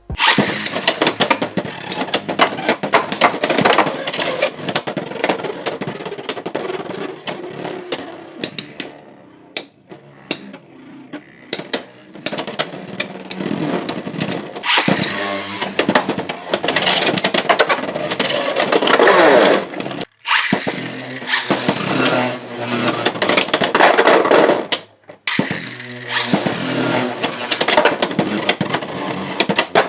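Beyblade X spinning tops whirring and grinding against each other in a plastic stadium, with rapid clicks and knocks from repeated collisions. The sound breaks off briefly twice, about two-thirds of the way through.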